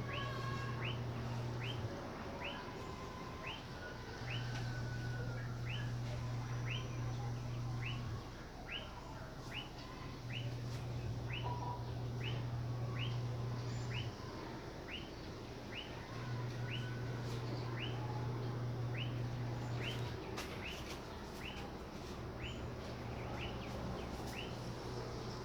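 A short high chirping call repeated steadily, about three every two seconds, over a low hum that runs for about four seconds and stops for about two, over and over.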